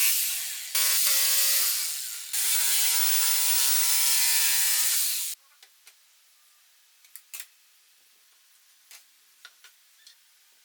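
A power tool's motor runs in three bursts, each cutting off abruptly, the last one ending about five seconds in. A few light knocks follow.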